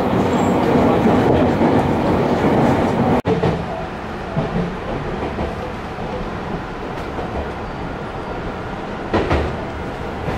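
Running noise inside a Tobu 50000-series electric train car: wheels on the rails and the car's own rumble. It is loud at first, breaks off abruptly about three seconds in, and then goes on quieter as the train pulls into the station, with a brief knock near the end.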